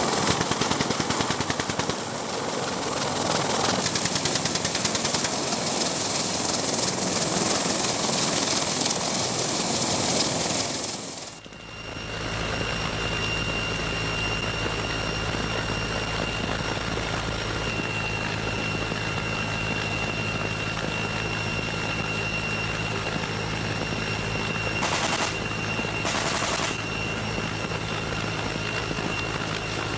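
.50-calibre Browning heavy machine gun firing fast, sustained bursts from a helicopter. About eleven seconds in, this cuts to steady helicopter engine and rotor noise with a high turbine whine, broken by two short bursts of noise near the end.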